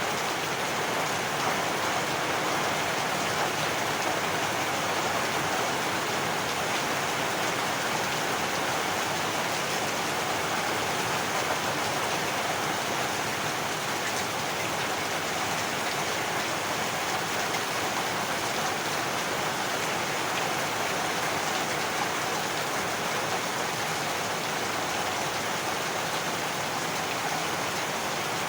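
Heavy rain falling steadily, an even hiss of rain on surfaces with no thunder and no change in level.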